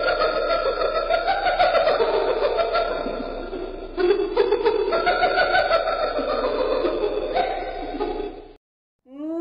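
A group of spotted hyenas giggling and cackling in a dense, rapid chatter. The sound shifts abruptly about four seconds in and cuts off suddenly near the end.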